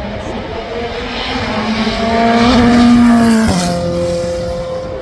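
A performance car's engine at high revs, getting louder as it approaches and then dropping sharply in pitch about three and a half seconds in as it goes past.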